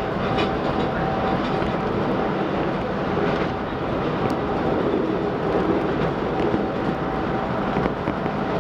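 Chicago 'L' Brown Line train running on elevated track, heard from inside the car: a steady rumble of wheels and motors with a few faint clicks.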